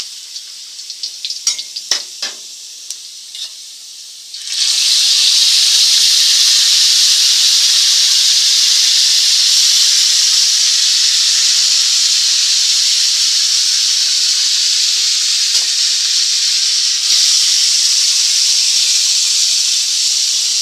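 Ground red chili paste hitting hot oil and fried shallots in a wok: a sudden loud sizzle starts about four and a half seconds in and holds steady. Before that, the quieter frying is broken by a spatula clicking and scraping against the wok.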